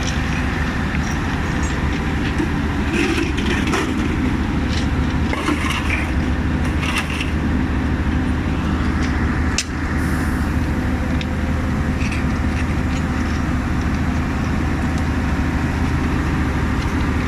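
Engine of an electric rail welding machine running steadily, with a few short crackles and snaps in the first half.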